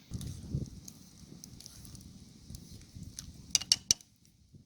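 Campfire crackling, with a low rumble in the first second and a cluster of sharp pops about three and a half seconds in.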